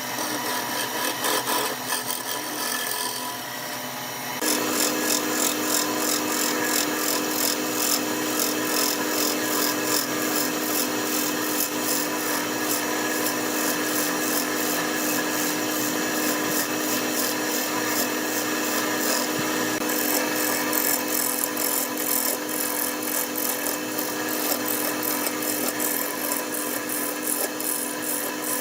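Wood lathe running with a steady motor hum while a tool scrapes and cuts the spinning wood in a fast, even rhythm. The cutting gets louder about four seconds in.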